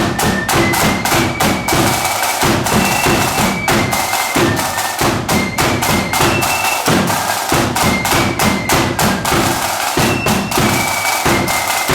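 Flute and drum marching band playing a tune. High flute notes carry the melody over rapid snare drum strikes and bass drum beats.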